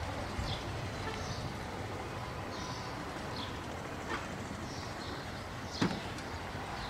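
Distant commuter train moving away, a low steady rumble, with short bird chirps over it and one sharp click near the end.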